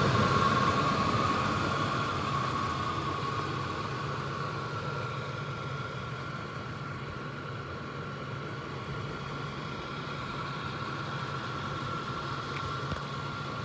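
A steady engine-like hum with a constant whine above it, louder for the first couple of seconds and then settling to an even level.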